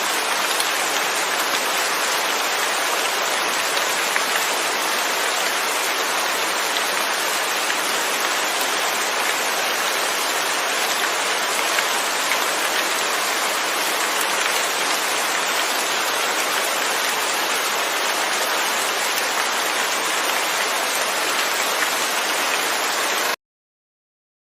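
Steady rain falling, with no thunder. It cuts off suddenly near the end.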